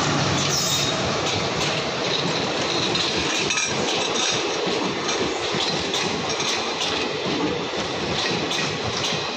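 Passenger coaches of an Indian Railways express rolling past at departure speed: a steady rumble with wheels clicking irregularly over rail joints and a little faint wheel squeal.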